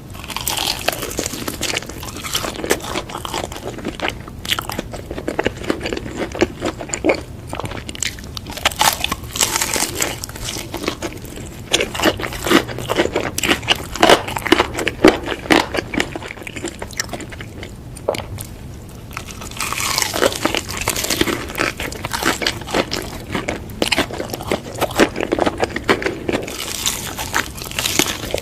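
Close-miked eating sounds: crunchy bites and chewing of burger and fries, in dense stretches of crackling crunches with short lulls.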